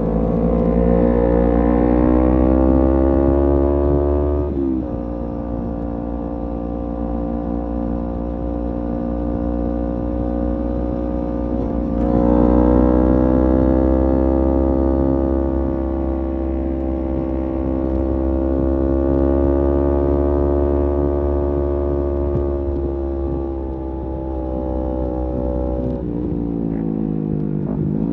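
Kawasaki Z250 parallel-twin with a SeaPro aftermarket muffler, ridden at cruising speed. Its note climbs for the first few seconds and drops sharply with a gear change about four seconds in, then holds steady. It rises again about twelve seconds in and slowly falls away, with another drop near the end.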